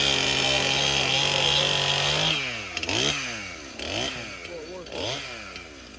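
Two-stroke chainsaw running at a steady high speed, then revved up and down over and over, about once a second.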